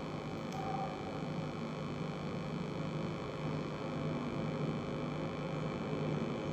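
Steady low humming voice: the long humming exhale of Bhramari (humming bee) breath.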